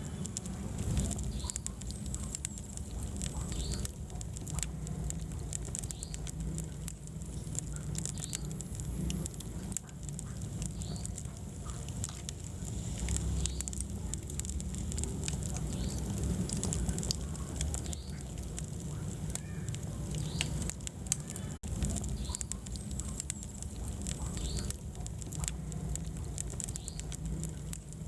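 Wood fire burning in a fireplace, crackling with frequent sharp pops over a steady low rumble of the flames. The sound drops out for an instant about 21 seconds in.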